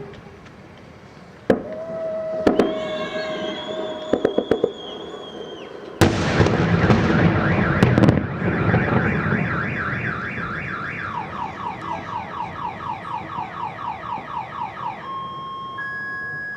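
Fireworks going off, with sharp cracks and a loud bang, while a car alarm sounds. The alarm cycles through rapid repeating warbling sweeps, then switches to alternating two-tone beeps near the end.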